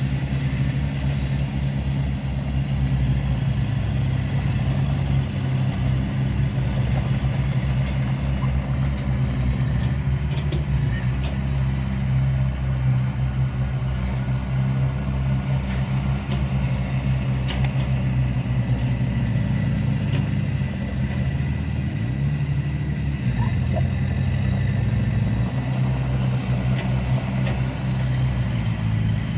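Heavy diesel engine of earthmoving machinery running steadily, its speed dipping and recovering a couple of times, with a few faint clicks on top.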